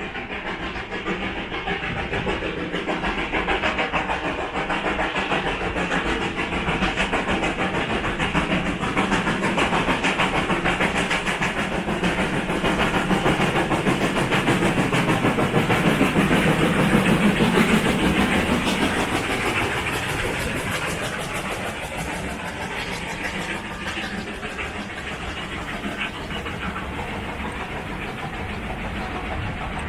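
Steam-hauled passenger train passing by with a steady rolling clatter of wheels on the track. It grows louder to a peak a little past halfway, then fades as it moves away.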